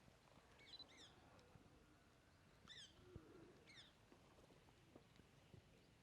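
Faint chirping of a small bird, three brief calls of quick falling high notes, over a quiet outdoor background.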